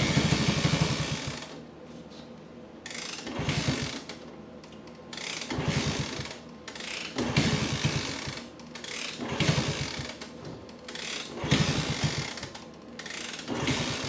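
1964 Honda C200's pushrod single-cylinder engine being kickstarted over and over, about every two seconds, each kick a second-long burst of rapid chuffing that does not catch and keep running. The engine will not start even though the owner has found spark, compression and fuel.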